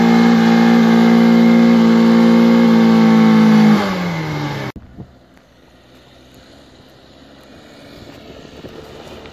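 Alfa Romeo hatchback's engine held at high, steady revs while its front wheels spin in mud on wet grass, the revs falling away near the middle. The sound then cuts off abruptly, leaving a much fainter car engine in the distance.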